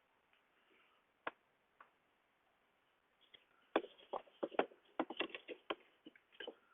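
Handling noise: a few scattered light clicks, then, about four seconds in, a quick irregular run of knocks and clicks as tools and wooden parts are handled.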